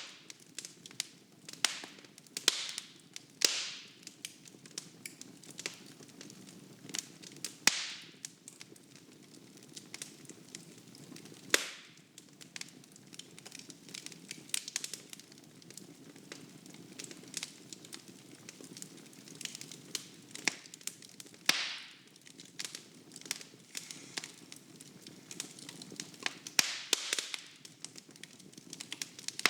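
Wood fire burning in a fireplace: irregular crackling and sharp pops from the burning logs over a soft hiss of flame, with a few louder pops scattered through.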